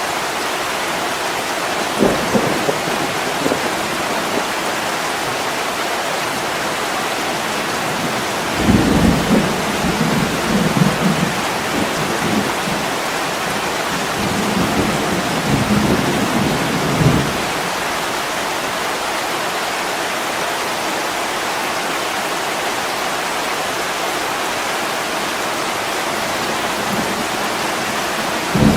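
Steady heavy rain hissing against a window, with rolls of thunder: a short rumble about two seconds in, a long rolling one from about nine to seventeen seconds, and another beginning at the very end.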